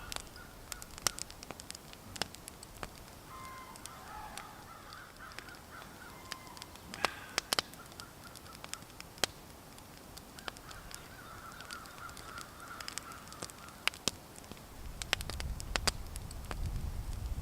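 Birds calling outdoors in drawn-out, wavering calls, with many scattered sharp clicks and crackles. A low rumble rises near the end.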